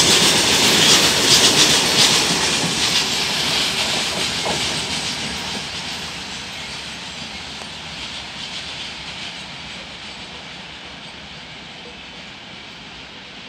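Loaded freight train's wagons rolling past on the rails: wheel clatter over the rail joints and a steady hiss, loud for the first two or three seconds, then fading steadily as the train moves away.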